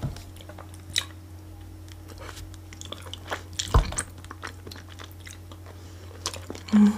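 Close-miked chewing and biting of food, wet mouth sounds and small crunches, with a sharper knock about a second in and a louder thump near four seconds.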